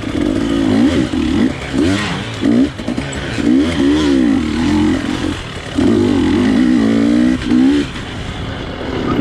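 Dirt bike engine revving up and down in short bursts while being ridden hard through tight trail, its pitch climbing and dropping every second or so, with a longer pull near the end.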